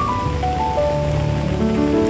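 Steady rain noise with calm instrumental music of slow, held notes stepping from one pitch to the next over it.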